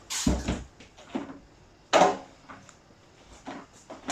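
Unboxing handling noise: hard parts and packaging knocked and set down. A heavy thump comes at the start, a sharper, ringing knock about two seconds in, and a few lighter clicks between them.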